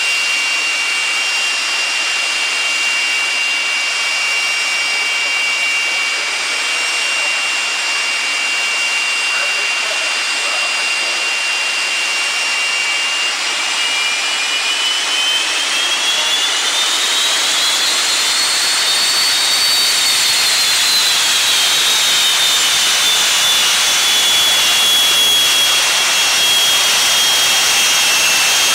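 Jet engine of a drag-strip jet recovery truck running with a loud hiss and a steady high whine. About halfway through the whine rises in pitch as the turbine spools up, peaks, then falls back and holds steady near the end.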